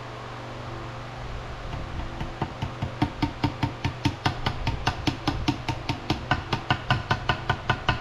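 Small ball peen hammer tapping rapidly on gasket material laid over a water pump flange, cutting out a homemade gasket; the taps start faint about two seconds in and settle into a quick, even rhythm of about four strikes a second. A steady hum runs underneath.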